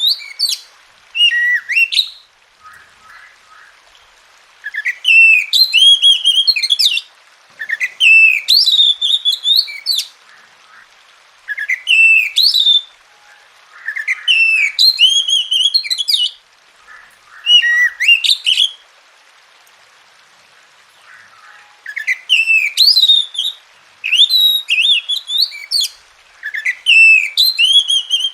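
Oriental magpie-robin singing: loud phrases of rich, warbling whistles, each one to three seconds long, separated by short pauses.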